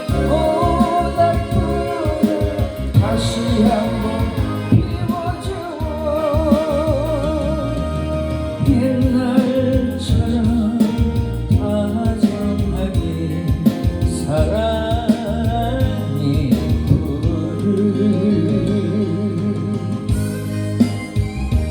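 A song: a solo singer holding long notes with vibrato over a band accompaniment, the voice dropping out near the end as the instruments carry on.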